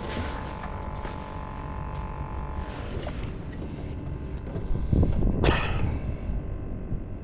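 Steady low rumble of wind on the microphone, with one sharp swish about five and a half seconds in.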